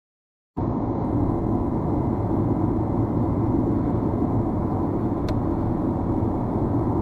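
Steady road and engine noise of a moving car as picked up by a dashcam, starting abruptly about half a second in. A faint click comes about five seconds in.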